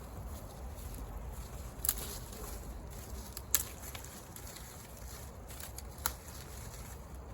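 Three sharp pops from wood burning in a campfire, about two seconds apart, over a steady low rumble.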